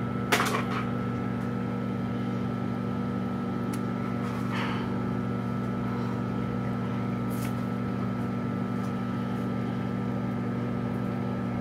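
Microwave oven running with a steady hum. A short knock comes about half a second in.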